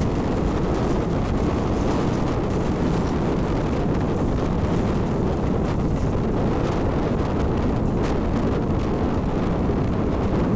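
Mumbai suburban electric local train running at speed, heard from inside near an open doorway: a steady rumble of wheels on the rails with faint clicks, mixed with wind across the microphone.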